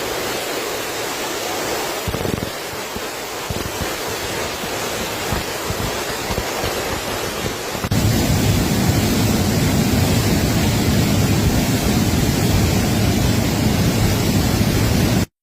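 Steady roar of rushing water in a cloudburst flood. About eight seconds in it gets louder and deeper.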